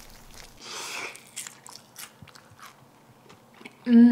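Biting into crispy double-fried Korean fried chicken: a crunch about a second in, then several short crisp crunches of chewing. Near the end comes a loud 'mmm' of delight through a full mouth, falling in pitch.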